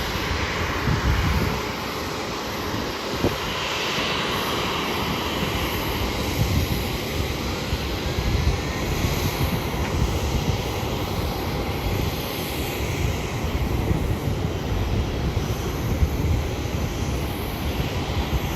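Boeing 737-700 jet engines running steadily, a continuous even noise with a strong low rumble.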